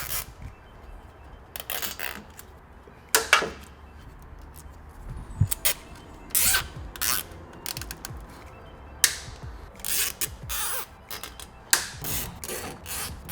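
Nylon zip ties being pulled tight around wiring: a series of short rasping zips and clicks at irregular intervals.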